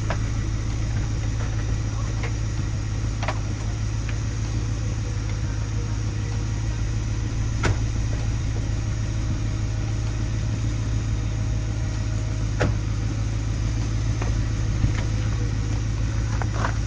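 A vehicle engine idling steadily with a deep, even low rumble, with a couple of sharp clicks over it.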